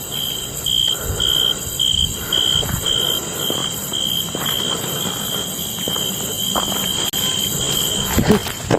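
An insect chirping steadily in a high, even rhythm, about two chirps a second, over a low background hiss.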